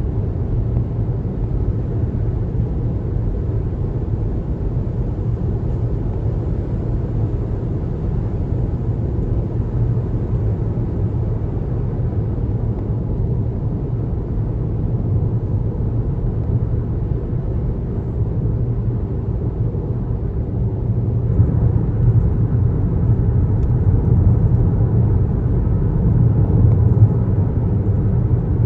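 Car road noise while driving: a steady low rumble of tyres and engine, getting a little louder about two-thirds of the way through.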